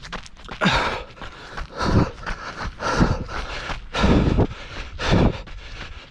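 A trail runner's heavy breathing, about one loud breath a second in a steady rhythm, with fainter footfalls between.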